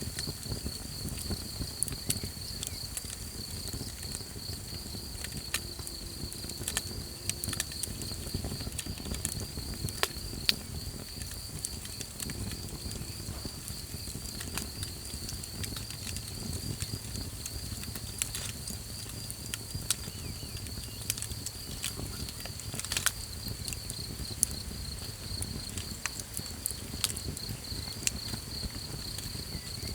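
Small campfire crackling, with irregular sharp pops, two of them louder about a third of the way in and again past the middle, over a continuous pulsing cricket trill and a low rumble.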